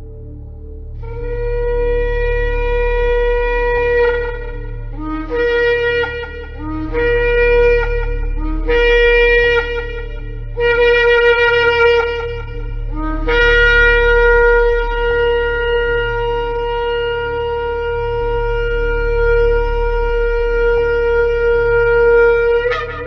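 Shofar (ram's horn) blown in a series of blasts: a blast of about three seconds, four shorter blasts, then a very long blast of about nine seconds that rises sharply in pitch at the very end. Several of the blasts break up from a lower note into the main note as they start.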